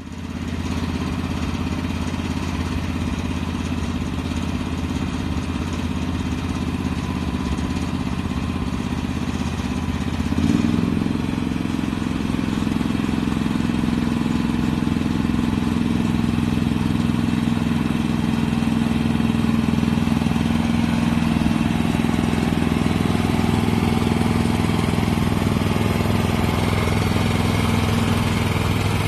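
Small petrol engine of a 7¼-inch petrol-electric miniature locomotive running steadily, then speeding up about ten seconds in and holding the higher speed.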